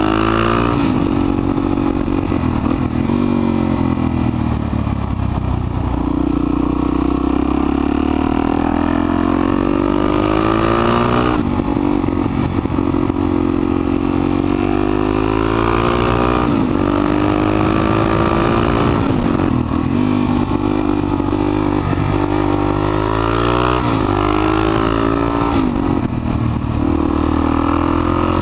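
Suzuki DR-Z400SM supermoto's single-cylinder four-stroke engine under way, repeatedly revving up and dropping back as the rider works the throttle and shifts gears, the pitch climbing and then falling off sharply several times.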